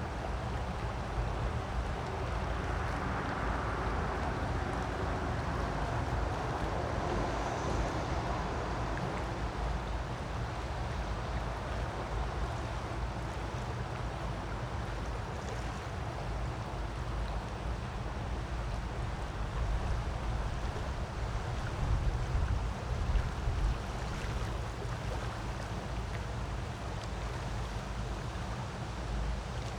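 Creek water rushing steadily, an even noise with a low rumble beneath it and a few louder bumps about three-quarters of the way through.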